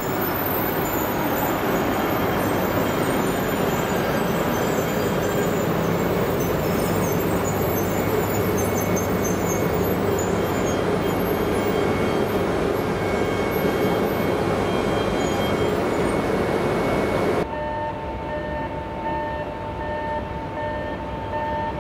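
E926 East-i shinkansen inspection train running slowly past along the platform: a steady rumble of wheels and running gear with a few faint steady tones. About seventeen seconds in, the sound cuts to a quieter steady hum with clear steady tones from the train standing at the platform.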